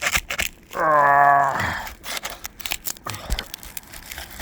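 Asphalt roof shingles being pried up, with scraping, crackling and clicks as the sealant strips tear loose: the glue lines are breaking. About a second in comes a short steady pitched tone, the loudest sound here.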